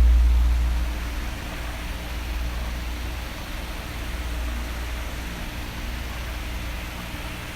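Electric fan running, a steady whoosh of blown air with a faint hum. A heavy low rumble under it drops away in the first second, leaving the lighter, even airflow hiss.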